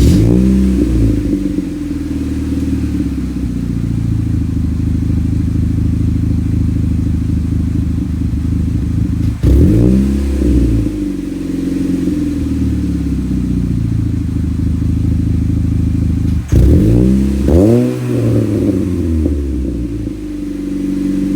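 Saturn Ion Redline's supercharged 2.0-litre Ecotec four-cylinder starting and idling through its exhaust, blipped three times: once about halfway through and twice in quick succession near the end, each rev dropping straight back to idle.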